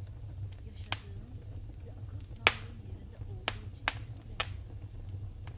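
Wood fire in a fireplace crackling: about five sharp pops, the loudest near the middle, over a steady low rumble.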